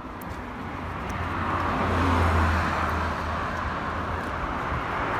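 Motor vehicle running, swelling in loudness over the first two seconds, with a low hum strongest about two seconds in, then holding steady.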